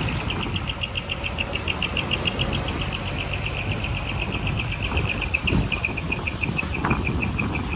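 Komatsu D31P bulldozer's diesel engine running with a steady low rumble, under a rapid high-pitched chirping of about seven pulses a second.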